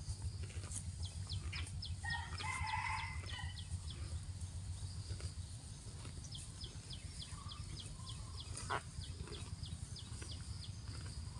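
A rooster crows about two seconds in, over a steady low rumble, with runs of short, quick, high chirps before and after it.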